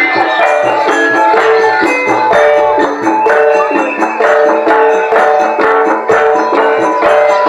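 Live jaranan music from a Javanese percussion ensemble: ringing pitched notes that step up and down over a steady struck beat.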